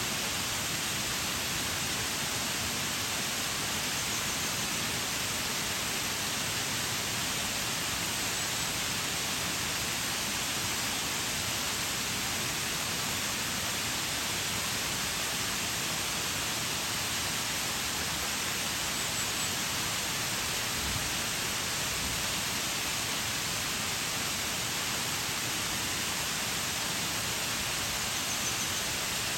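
Waterfall: the steady, even rush of falling water, strongest in the high hiss.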